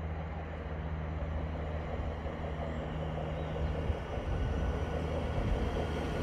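A train's low, steady hum with a rumble that grows louder, especially from about four seconds in, as it draws nearer.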